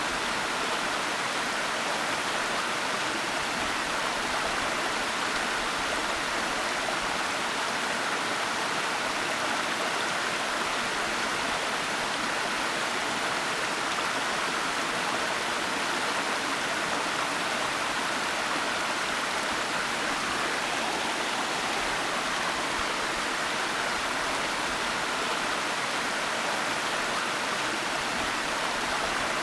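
Waterfall: water falling and rushing in a steady, unchanging hiss with no breaks.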